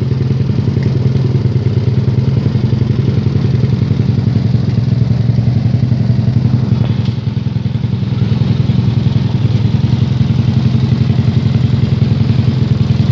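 Yamaha Jupiter Z underbone motorcycle's single-cylinder four-stroke engine running steadily at low revs through its exhaust, with a fast even beat; it eases off slightly about halfway through.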